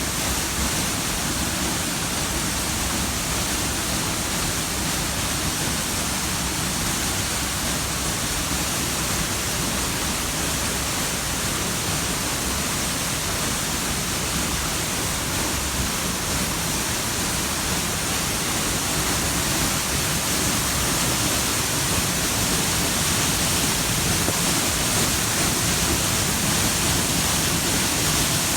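Steady rushing of water, an unbroken noise that grows a little louder about two-thirds of the way through.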